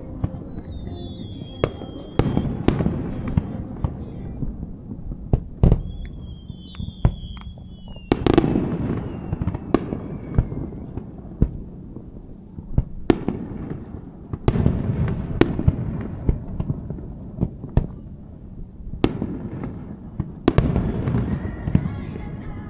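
Fireworks display: aerial shells bursting with sharp bangs every few seconds, each followed by a rumbling, crackling tail. A couple of high falling whistles sound in the first few seconds.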